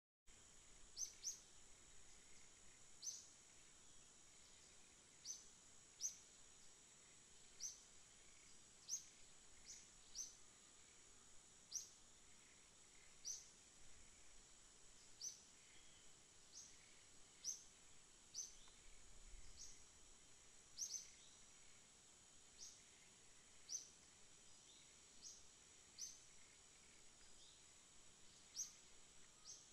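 A bird calling over and over with short, sharp, falling chirps, irregularly every second or two and sometimes in pairs, over a steady high insect drone.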